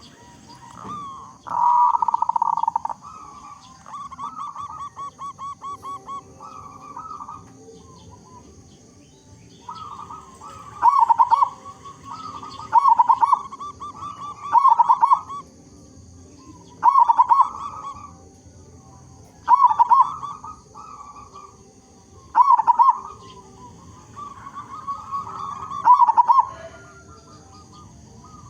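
Zebra dove (perkutut) cooing in repeated phrases. A rapid run of short trilled notes comes early, then loud, strong coos about every two seconds through the second half.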